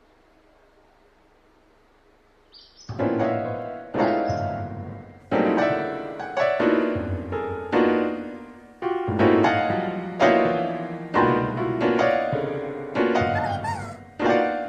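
After about three seconds of near silence, a slow, sad tune begins on piano: struck chords roughly once a second, each dying away before the next.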